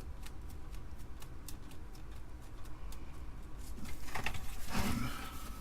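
Light clicks and scrapes of computer parts being handled during a teardown, with a louder scraping rustle from about four seconds in.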